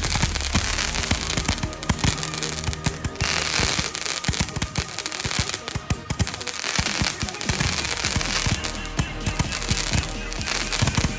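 Consumer multi-shot fireworks cake firing a rapid, irregular string of shots, with background music.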